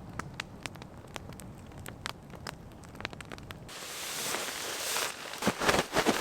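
Campfire crackling with sharp scattered pops over a low rumble; about four seconds in a louder rustling and shuffling noise takes over, with a few heavier knocks near the end.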